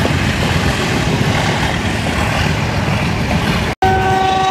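Passenger train running, a steady rumble of wheels and carriage noise. Near the end, after a split-second break in the sound, a train horn sounds one steady note.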